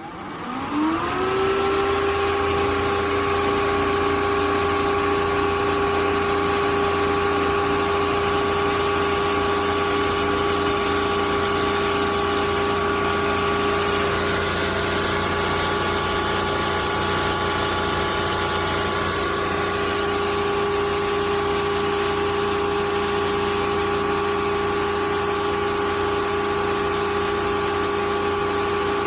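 Bissell CrossWave Cordless Max wet-dry vacuum switched on: its motor spins up with a rising whine in the first second or so, then runs steadily with a constant whine over a whoosh of air.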